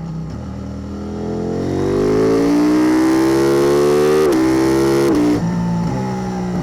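KTM 890 Duke R's parallel-twin engine through a Spark Dyno slip-on double exhaust, accelerating hard: the pitch climbs steadily, breaks briefly twice as it shifts up, then drops to a lower, steadier note as the throttle comes off near the end.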